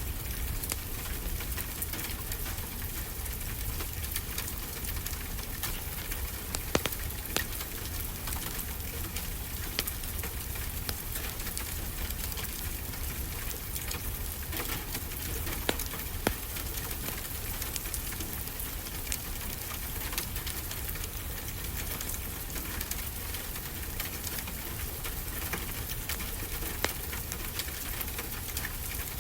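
Wood fire crackling, with constant small pops and a few louder ones, over a steady hiss of ocean surf.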